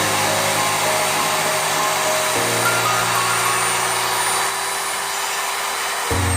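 Electric drill motor running at steady speed with a high whine, over background music. Near the end the motor cuts off and the whine falls away.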